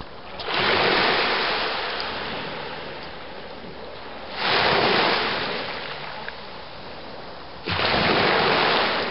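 Ocean waves breaking on the beach three times, about four seconds apart: each crashes in suddenly and then fades into a washing hiss.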